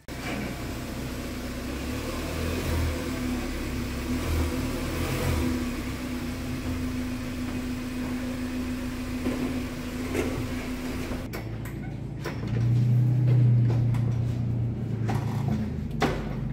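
Car engine running as the car is driven slowly up onto drive-on ramps, with a steady low hum under a held tone. About two-thirds through, the sound cuts to a deeper, louder steady hum, then a few sharp knocks near the end.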